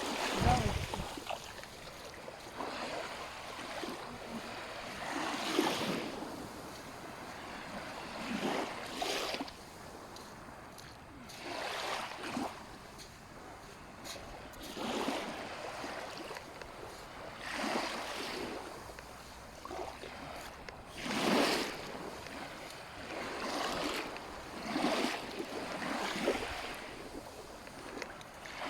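Small sea waves breaking and washing onto a sandy beach, a fresh swell of surf every two to three seconds.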